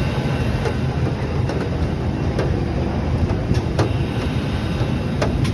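Airbus A319 cabin noise with the aircraft rolling on the ground: a steady, heavy rumble from the engines and wheels, with irregular knocks and clicks from the landing gear running over surface joints.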